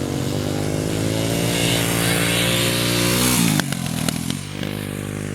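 Small dirt bike engines running, one revving up gradually over about three seconds before easing off. A few sharp clicks come just past the middle.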